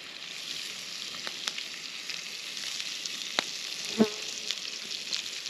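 Sausage links frying in a pan: a steady sizzle with scattered small pops and crackles. A brief short pitched sound comes about four seconds in.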